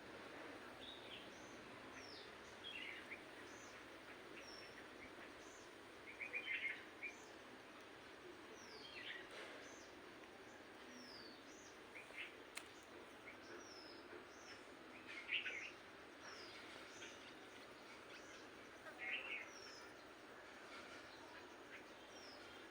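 Birds chirping: many short high chirps and quick falling whistle notes over a faint steady hiss, with louder bursts of chirps every few seconds.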